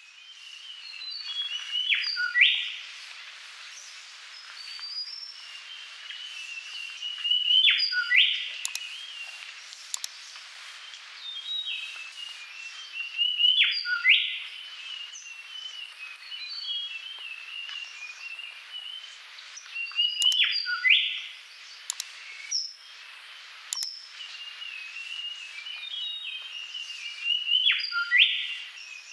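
Birds chirping, with a louder group of quick rising calls that comes back in the same pattern about every six seconds.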